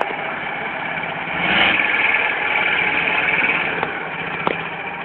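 Engine of a trial truck running under load, swelling louder about a second and a half in, then easing off near the end.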